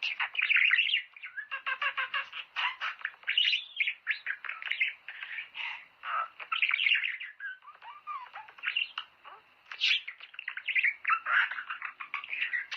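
Budgerigars chattering and warbling: a dense, unbroken stream of quick overlapping chirps, trills and squawks that starts abruptly.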